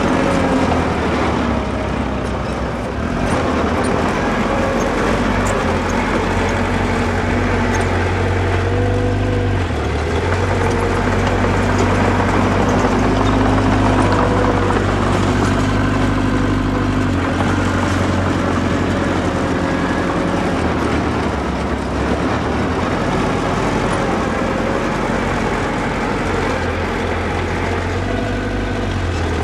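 Small bulldozer's diesel engine running under load as it works soil. The engine note shifts up and down in steps every few seconds.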